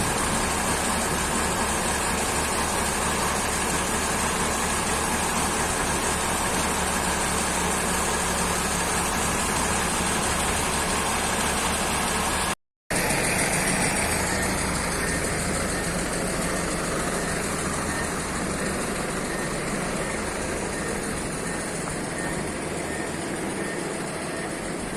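Forklift engine running steadily with an even low pulse. It cuts out completely for a moment just under halfway through, then comes back and slowly grows fainter.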